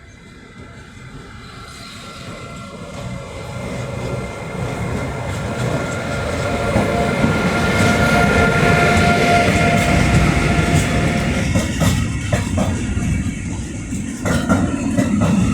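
Freight train approaching and passing, its rumble growing steadily louder over several seconds, with a high steady whine near its loudest. In the second half the wheels clack rhythmically over the rail joints as the wagons go by.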